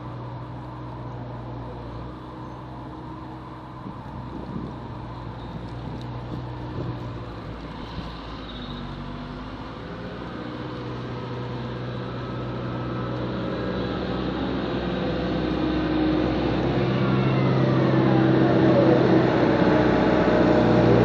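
Snow-removal vehicle's engine running steadily, its pitch shifting as it works, and growing gradually louder through the second half.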